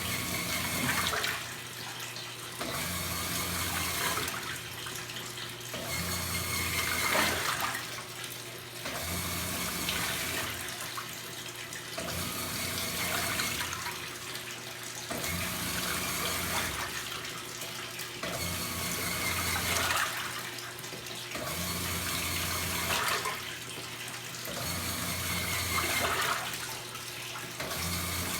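Top-loading washing machines in their wash cycle: the motor hums on and off about every three seconds as the agitator turns back and forth, over water sloshing in the tub.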